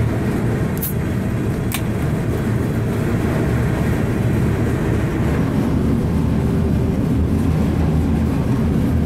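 Freight train rolling along, a steady, loud low rumble of the moving car. Two sharp clicks come about a second and two seconds in.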